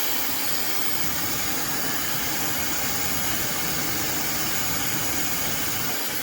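Fentgo high-speed brushless hair dryer running steadily, a constant rush of blown air.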